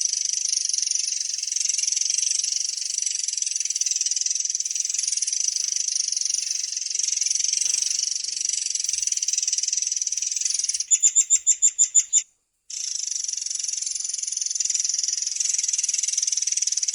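Murai air songbird singing a long, unbroken high-pitched rolling trill. About eleven seconds in, the trill switches to a quick run of about nine loud, ringing notes. After a brief cut to silence, the trill resumes.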